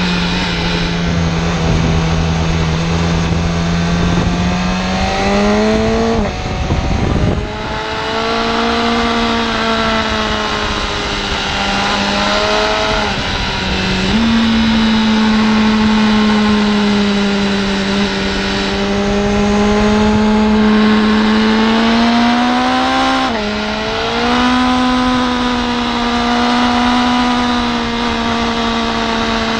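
BMW S1000RR's inline-four engine running hard on track, its note climbing and falling with throttle and jumping abruptly in pitch about three times as gears change, over a steady rush of wind.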